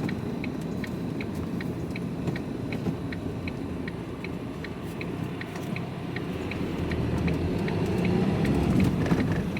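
Truck cab: a turn indicator ticking steadily about twice a second over the low rumble of the lorry's diesel engine, which grows louder over the last few seconds.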